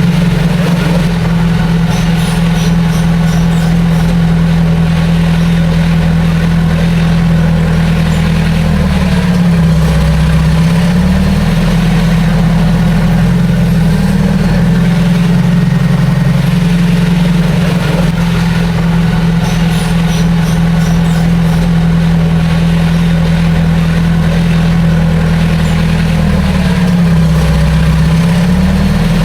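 Heavy diesel engine of an earthmoving machine running steadily under throttle. Its pitch dips briefly and recovers about ten seconds in and again near the end.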